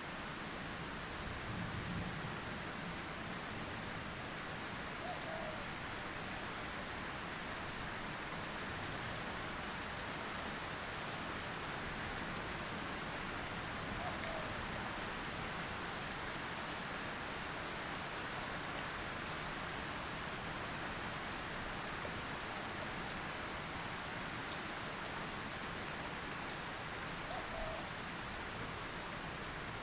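Steady, even rain falling, with a brief low rumble about two seconds in and three faint short chirps scattered through it.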